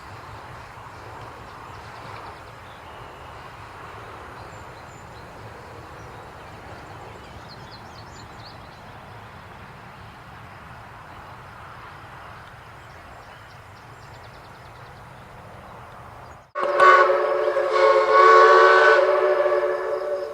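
Steady low rumble of a narrow-gauge steam train running. About sixteen seconds in, after an abrupt cut, the locomotive's steam whistle blows loudly, several tones sounding together as a chord, swelling twice before it fades.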